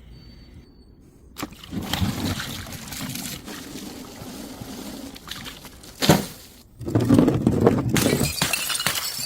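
Glass bottles hitting stairs and shattering: a knock about a second and a half in, a few seconds of lighter noise, a sharp impact about six seconds in, then a loud stretch of breaking glass near the end.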